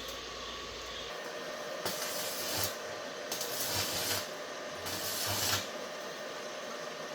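Three rough rubbing or scraping strokes, each under a second, over a steady faint hum.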